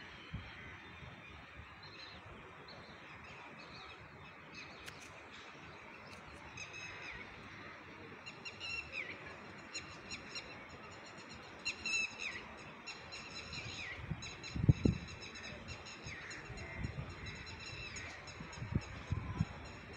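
Birds calling outdoors: repeated short, downward-sliding calls that start a few seconds in and come in runs, over a steady background hiss. A few low thumps stand out, the loudest about two-thirds of the way through.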